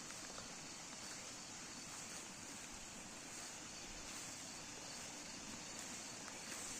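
Quiet rural outdoor ambience: a steady, faint high-pitched hiss with a few small ticks.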